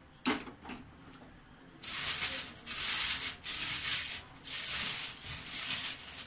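Gas stove being lit: a sharp click, then from about two seconds in a rough hissing rush that comes in uneven surges with short breaks.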